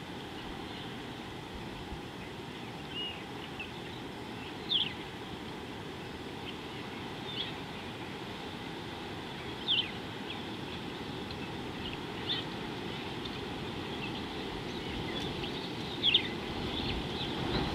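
A bird calling, repeating a short high note that drops in pitch every two to five seconds, over steady low background noise.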